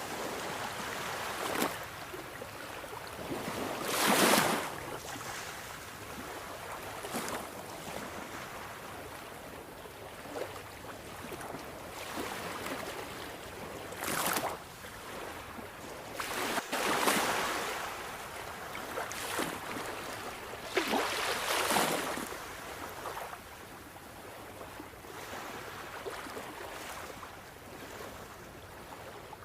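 Sea waves: a steady wash of surf with waves surging and breaking every few seconds, the loudest about four seconds in and several more in the second half.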